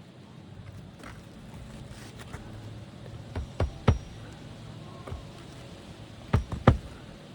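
Sharp knocks, three in quick succession about three and a half seconds in and two more near the end, over a steady low rumble.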